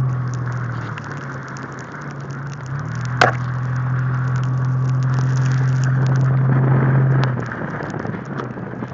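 Car engine and road noise heard from inside the cabin while driving. The engine's low hum comes back about 3 seconds in, grows steadily louder and then falls away near the end. A sharp click sounds just after it returns, and many small ticks run throughout, like wet slush and water spraying off the tyres.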